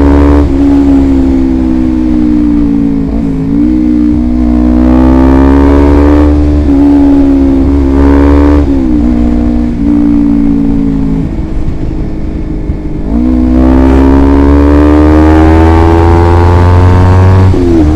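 Motorcycle running through an aftermarket DX Generation Sphere Oval exhaust under way. The engine note climbs slowly and drops sharply at each gear change, several times over.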